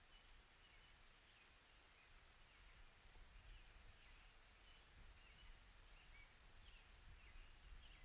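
Near silence in an outdoor storm recording: faint, short chirping calls, about one or two a second, over a quiet low rumble.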